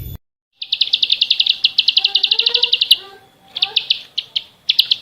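A small songbird singing fast trills of rapidly repeated high notes, in long runs broken by a short pause and a few brief bursts, with quieter, lower chirps behind. The sound before it cuts off abruptly just at the start.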